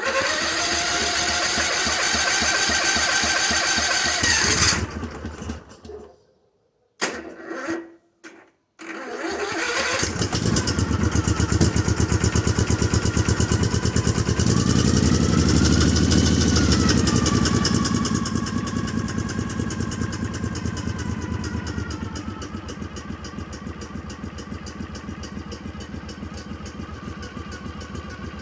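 An 18 hp V-twin minibike engine being cranked for a cold start after sitting about a month. It cranks for about four seconds, stops, gives a short second crank, then catches about nine seconds in. It runs fast with a rise and fall in speed, then settles to a steady, quieter idle.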